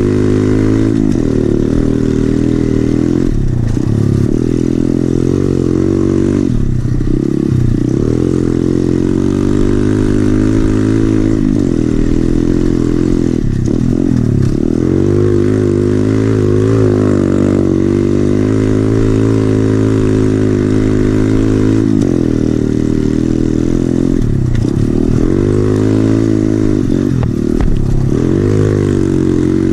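SSR 110cc pit bike's single-cylinder four-stroke engine with an FMF exhaust, revving up and dropping back over and over as the throttle is closed and reopened, with the pitch falling and climbing again every few seconds.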